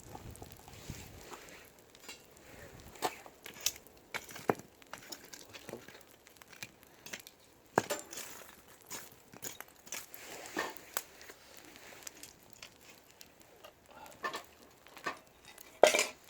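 A cooking utensil clinking and scraping against a frying pan of eggs frying over a wood fire, in scattered sharp knocks a second or so apart.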